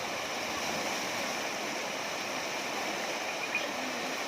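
Waterfall at Tham Phra rushing steadily over a rock face, an even wash of falling water.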